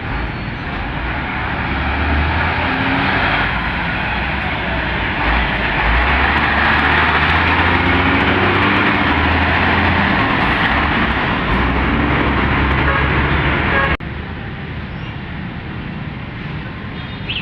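Heavy road traffic passing close, with trucks' engines running low and tyre noise, swelling to its loudest through the middle. The sound drops abruptly about fourteen seconds in.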